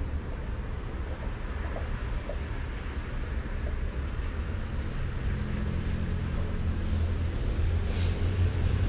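Thunderstorm noise: a steady wash of wind and rain, with a low rumble that grows louder over the last few seconds.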